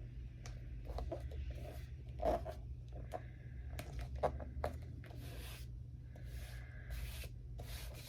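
Quiet paper handling of magazine cutouts: a scatter of light taps and crinkles, then, from about five seconds in, several short rubbing strokes across paper, as of a glue stick being spread on the back of a cutout.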